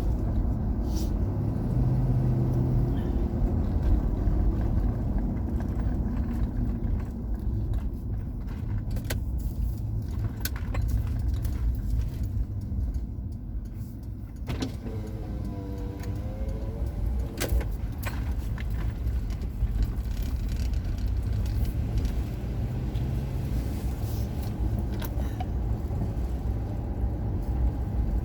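Car driving, heard from inside: steady low road and engine rumble with scattered light clicks and rattles. About halfway through, a brief wavering tone rises and falls for a couple of seconds.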